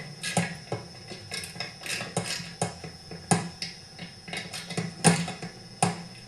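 Hand tools and metal chainsaw parts clinking and tapping irregularly as a saw is put back together, about one or two sharp clicks a second with louder knocks a little past the middle and near the end. A steady low hum runs underneath.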